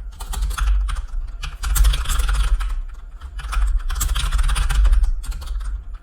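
Computer keyboard typing: quick runs of keystrokes clattering close to the microphone, in two heavier bursts partway through.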